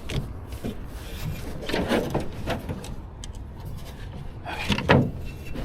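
Irregular knocks and scrapes from the loaded canoe being shifted and wedged at the bank, with a sharp thump about five seconds in, over a steady low rumble.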